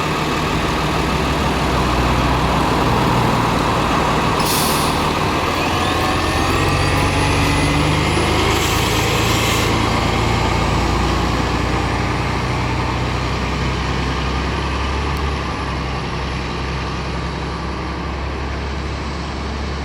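Diesel city bus engine running heavily, with two short hisses of air brakes, about four and a half and eight and a half seconds in.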